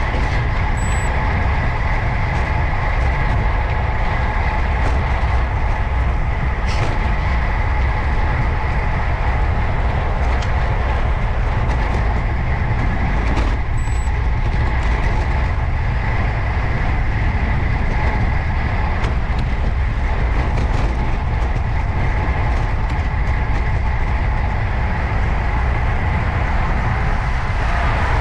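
Wind rushing over the microphone and tyre and road noise from a road bike riding at speed: a steady, deep rumbling rush with a faint steady hum above it and a few sharp ticks.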